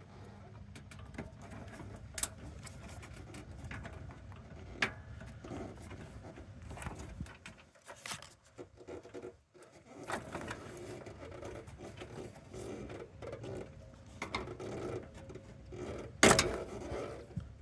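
Hand work on a washing machine's plastic parts during a tear-down, with scattered sharp clicks and knocks as a fitting such as the pressure switch is worked loose. A steady low hum runs underneath.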